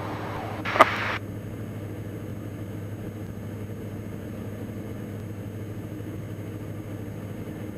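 Steady drone of a Diamond DA42 NG Twin Star's twin engines in flight, heard from inside the cockpit. A short burst of hiss with a click cuts off about a second in.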